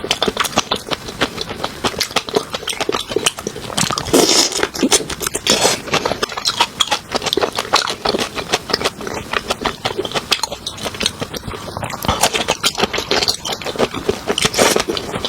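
Close-miked chewing and wet mouth sounds of a person eating, a dense run of smacks and clicks, with louder bursts about four seconds in and near the end.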